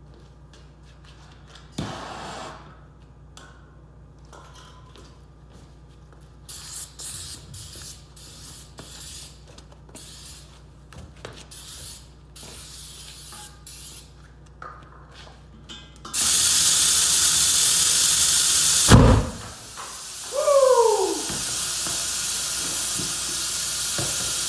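Aerosol can of starting fluid sprayed into a semi-truck tire in short bursts, then a loud steady hiss and one loud whoomp about three-quarters of the way through as the fluid ignites and the bead seats, followed by a steady hiss of air going into the tire.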